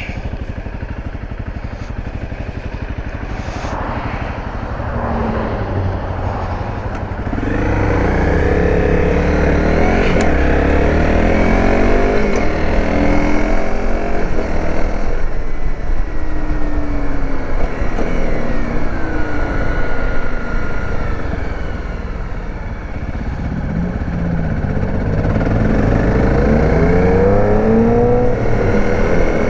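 Dirt bike engine pulling away and accelerating through the gears, its pitch rising and dropping back with each shift. It picks up about a quarter of the way in, eases off about three quarters through, then climbs again.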